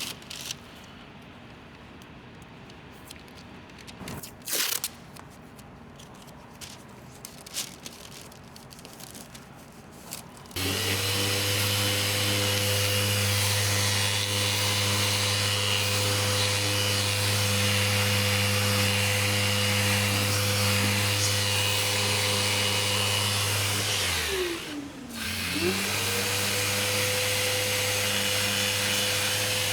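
Light clicks and handling noises, then, about a third of the way in, a power sander starts and runs steadily with a hissing whir. Near the end its pitch drops sharply and climbs back as the motor slows and spins up again, then dips briefly once more.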